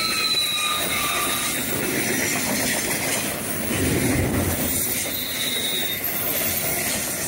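Freight train cars rolling past steadily in pouring rain, with thin high-pitched wheel squeals sliding slightly downward near the start and again about five seconds in, and a heavier low rumble around the middle.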